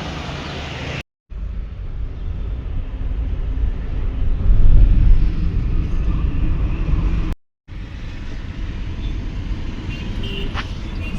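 Low, steady rumble of road traffic, swelling about four to six seconds in and broken twice by brief cuts to silence.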